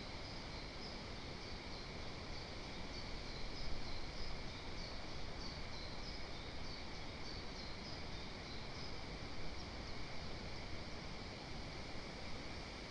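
A small bird singing in the forest, a run of short high chirping notes that stops about nine seconds in, over a steady hiss.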